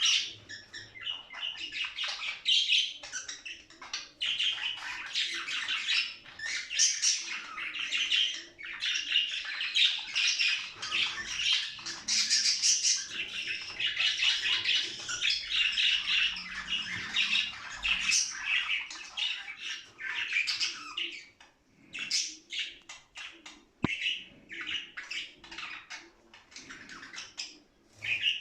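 Budgerigars chattering and warbling, a dense run of rapid chirps and squawks that thins to scattered short chirps and clicks near the end.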